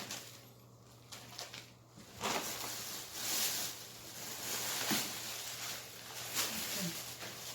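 Plastic packaging rustling and crinkling as grocery items are handled, starting about two seconds in and going on in uneven bursts.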